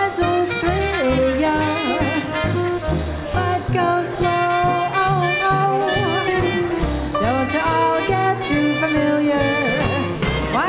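Live small-group swing band playing: horn lines with bends and slides over a steady walking bass and drums.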